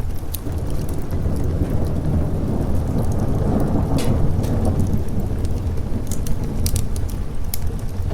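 Thunder rumbling over steady rain, swelling through the middle and easing off. Sharp crackles and pops from a wood fire are scattered through it.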